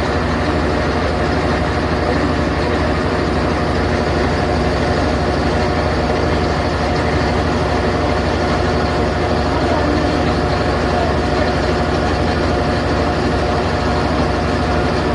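Whirlpool WTW5010LW top-load washing machine in its high-speed final spin, a steady, loud whir of the spinning basket and drive, "like an airplane engine".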